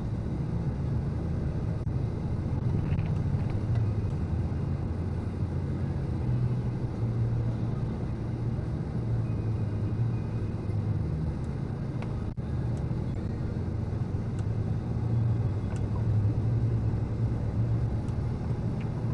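An engine running steadily with a low rumble that swells and eases a little, with a single click about twelve seconds in.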